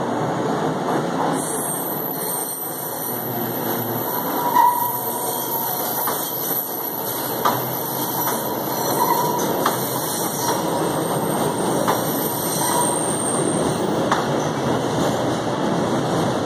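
A Scarborough RT train (UTDC ICTS Mark I cars on linear induction motors) rolls in on a curve with a steady running noise and a thin high whine. Brief wheel squeals come three or four times, and a few sharp clicks sound as the wheels cross rail joints.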